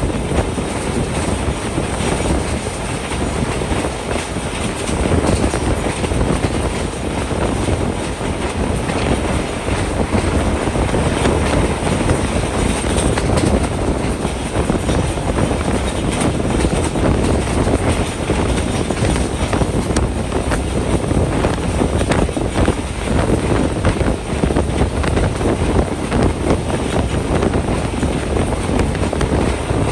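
Passenger train coach running along the track: a steady rumble of steel wheels on the rails with fine, continuous clatter.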